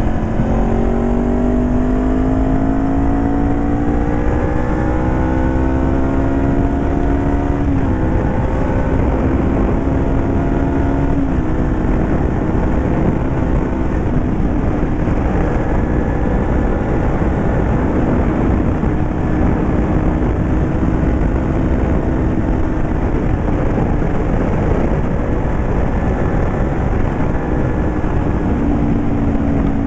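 2018 Honda CBR500R's 471 cc parallel-twin engine, with the exhaust baffle removed, rising in pitch under acceleration, dropping with upshifts about 8 and 11 seconds in, then holding a nearly steady pitch. Wind rumbles on the microphone throughout.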